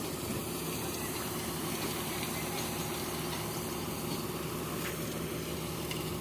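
Tata Signa truck's diesel engine idling steadily.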